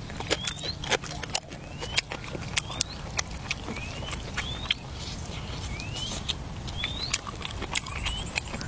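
An animal chirping: short rising chirps repeated about once a second, among scattered sharp clicks.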